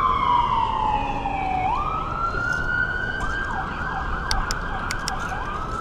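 Emergency vehicle siren: a long wail falling slowly in pitch, jumping back up about two seconds in, then switching to a faster yelp of quick falling sweeps, about three a second.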